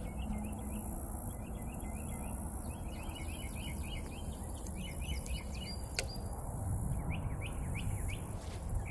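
Songbird calling in quick runs of short falling chirps, repeated in bursts, over a steady low rumble that swells slightly near the end.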